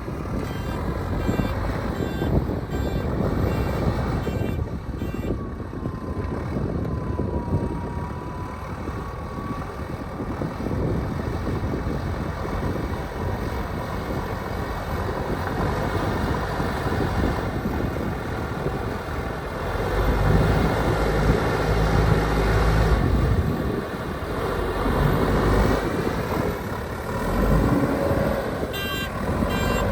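Heavy construction machinery engine running under low, gusty rumble. The engine grows louder for a few seconds past the middle, and a vehicle's reversing alarm beeps near the end.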